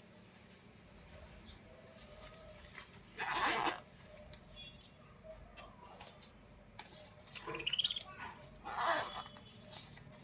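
A bird's short rustling and chirping sounds in three brief bursts, about three, seven and a half, and nine seconds in; the middle one carries a short rising chirp.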